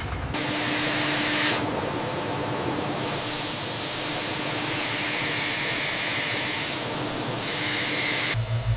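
A steady hiss, like a jet of air or spray, that starts just after the beginning and cuts off shortly before the end, with a faint steady hum beneath it.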